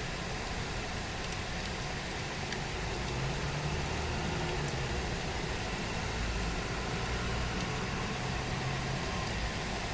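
Steady rain falling, an even hiss, with a low engine hum from a vehicle underneath it from about three seconds in until near the end.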